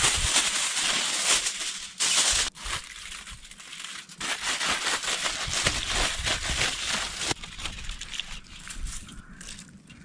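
Wood campfire burning, crackling and hissing, in a few short segments that start and stop abruptly.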